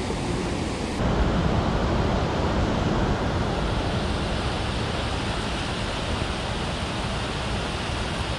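Mountain stream rushing steadily, a constant wash of water noise that grows louder and fuller about a second in.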